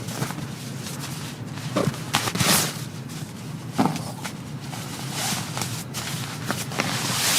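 Scattered light knocks and clicks with rustling, and brief swishes about two and a half seconds in and again at the end, typical of someone moving about and handling gear at a rainy campsite.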